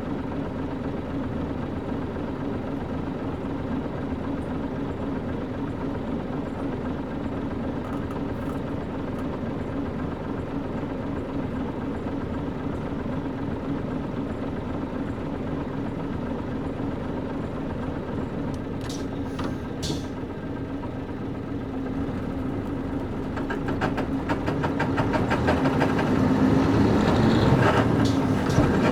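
KC-UA460LSN one-step bus with its PG6 diesel engine, heard from inside while driving at a steady pace. About three-quarters of the way through, the engine note rises and grows louder as the bus accelerates.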